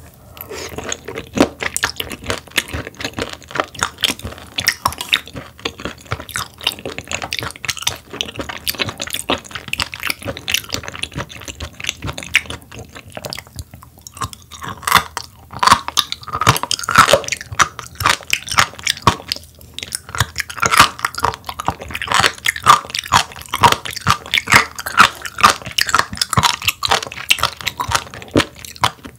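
Close-miked chewing of raw sturgeon, with crisp crunching bites and wet mouth sounds. The crunching gets louder and busier about halfway through.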